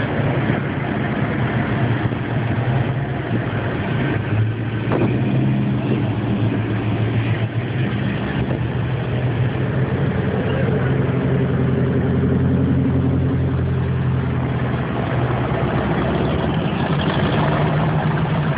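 Car engines idling and moving slowly, a steady low rumble whose pitch shifts now and then as the engines change speed.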